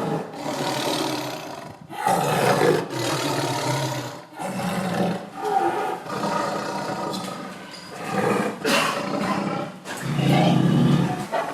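A big cat roaring again and again, a run of loud roars with short breaks between them.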